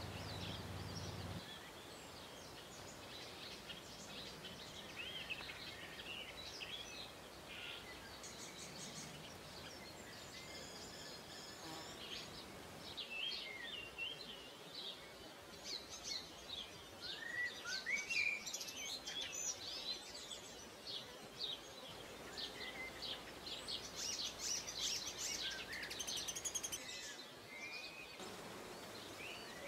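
Several small songbirds singing and chirping together, a mix of short calls and trills over a faint steady hiss. It gets busier in the second half.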